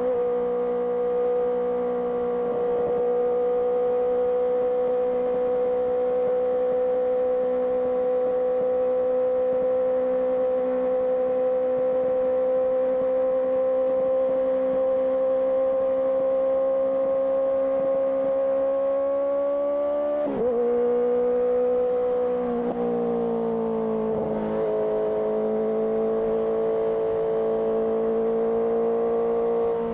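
Honda CBR650R inline-four engine running through an IXIL IXRACE aftermarket exhaust under steady throttle, its note slowly climbing with speed. About two-thirds of the way through the note breaks and drops in two steps, as at a gear change, then holds steady at a lower pitch.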